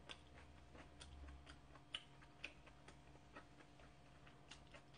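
Close-miked chewing, heard as faint, irregular soft clicks and smacks of a mouth working on food, just above near silence.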